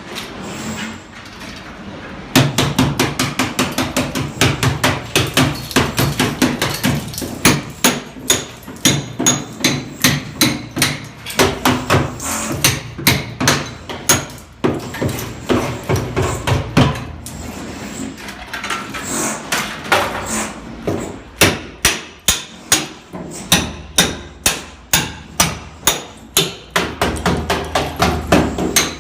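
Hammer blows struck in quick succession, roughly three to four a second, starting about two seconds in and going on in a steady rhythm with brief pauses.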